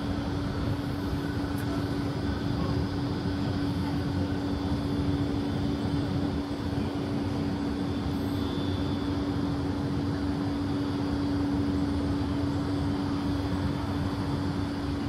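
Diesel-hauled freight train of tank wagons rolling away along the track: a steady rumble with a constant hum.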